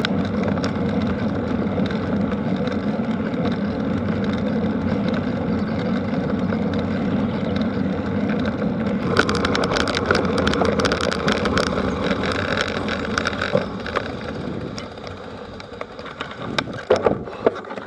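A vehicle engine running steadily, with clicking and rattling from about nine seconds in. Its sound drops away after about fifteen seconds, and a few sharp knocks come near the end.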